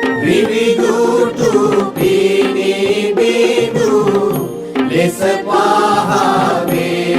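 Chant-like singing over instrumental music, with long held notes that waver and bend in pitch.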